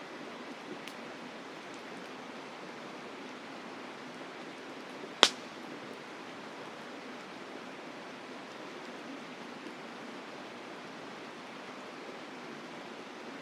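Campfire crackling, with one sharp loud pop of burning wood about five seconds in and a few faint ticks, over the steady rush of a mountain river.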